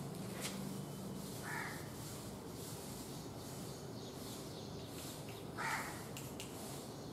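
A bird calls twice, one short call each time about four seconds apart, the second louder. Faint scratching of chalk writing on a blackboard runs underneath.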